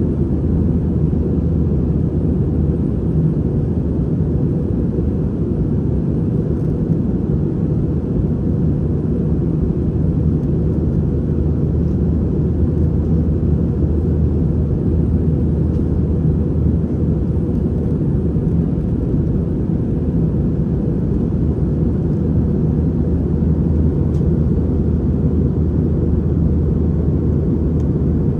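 Steady low drone of an Airbus A320 jet airliner in flight, heard inside the passenger cabin: engine and airflow noise that holds even throughout.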